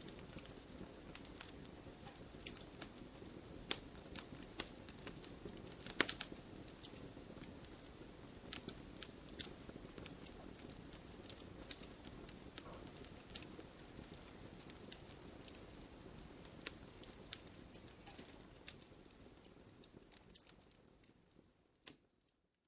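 Campfire burning, with frequent sharp crackles and pops over a low steady rush of flames. Near the end it fades out to a moment of silence.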